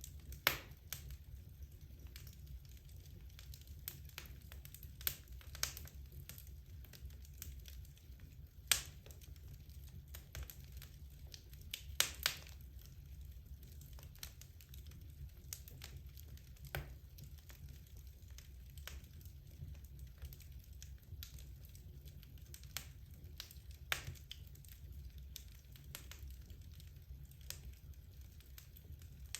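Wood fire crackling in a fireplace: irregular sharp pops and snaps of burning logs, a few louder ones among many small ticks, over a steady low rumble of the flames.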